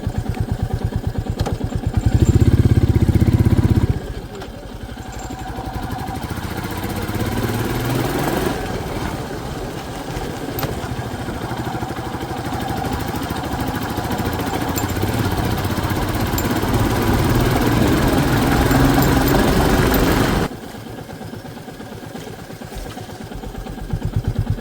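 Motorcycle engine idling with an even beat, then running under way, its sound rising and falling; it drops suddenly about twenty seconds in, and the idling beat returns near the end.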